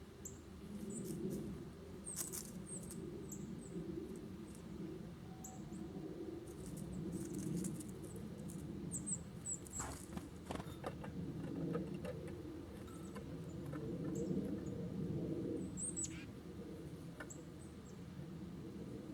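Small songbirds at a feeder giving short, high chip notes, scattered singly throughout, with a few sharp clicks among them. An uneven low rumble runs underneath.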